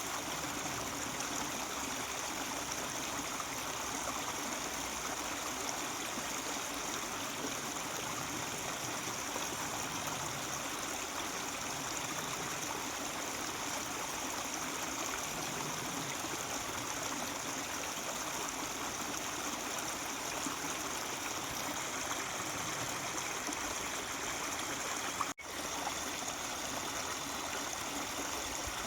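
Mountain stream flowing and babbling steadily, with a momentary dropout near the end.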